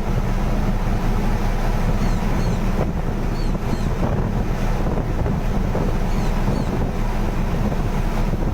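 Wind buffeting the microphone, a loud steady low rumble, with faint short high bird chirps recurring every second or so.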